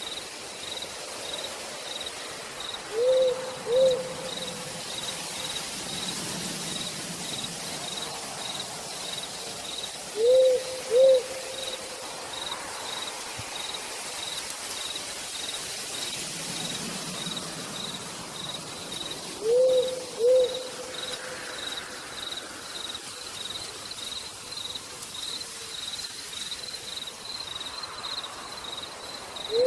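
Steady rain with a cricket chirping in an even, rapid pulse, while an owl gives pairs of short hoots about every eight seconds, three times.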